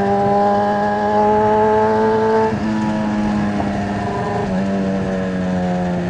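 A 636cc sport bike's inline-four engine running under way, with wind rush over it. The engine note climbs slightly, then drops about two and a half seconds in, and holds steady after that.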